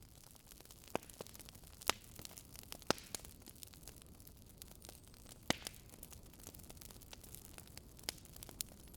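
Wood fire burning in a fireplace: a steady low hiss with irregular sharp crackles and pops, the loudest at about one, two, three and five and a half seconds in.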